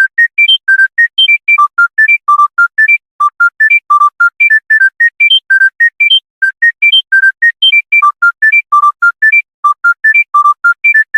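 Monophonic mobile phone ringtone: a quick melody of short, separate beeps, about five notes a second, hopping up and down in pitch.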